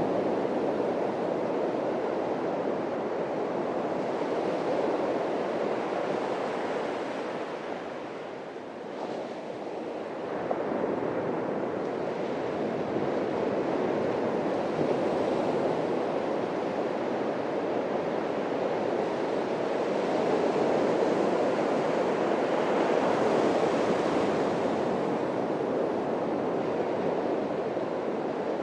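Atlantic surf breaking and washing on a beach in a steady rushing noise that swells and eases with each wave, dipping briefly about a third of the way in.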